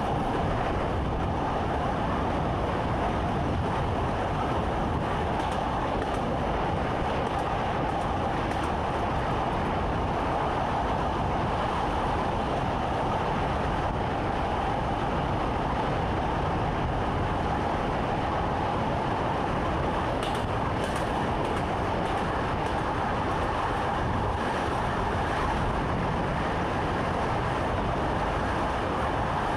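Train running steadily along the track, heard from inside the driver's cab: an even rumble and rush with a constant hum.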